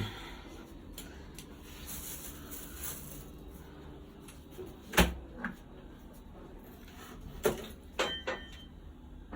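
A few separate knocks and clunks of household things being handled, like a cupboard or door being shut, the loudest about five seconds in.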